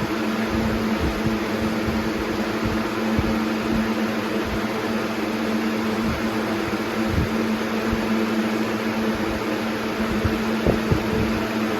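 Air King 9723 box fan running on high speed: a steady rush of air over a low, even hum, with irregular soft low thumps, a sound its owner likens to a turboprop.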